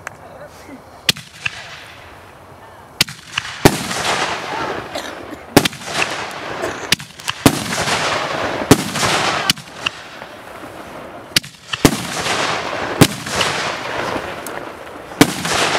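A 10-shot rack of Excalibur artillery-shell fireworks going off in succession, with sharp bangs a second or two apart from the shells launching and bursting. Several of the bursts trail off in a long crackling hiss.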